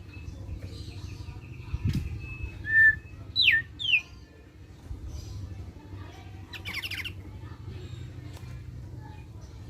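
Thick-billed white-eye (opior paruh tebal) calling in scattered notes over a low steady hum. It gives a held whistle, then a short note and two loud notes that sweep down in pitch around the middle, and a brief buzzy rattle later.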